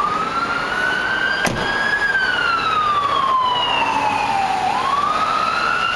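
An emergency vehicle's siren on a slow wail, rising in pitch for about two seconds, falling for nearly three, then rising again near the end. A brief click sounds about a second and a half in.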